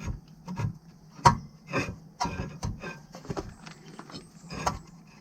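Irregular knocks, clicks and scrapes of hand tools working on a car's disc brake caliper, about a dozen sharp strikes, the loudest about a second in.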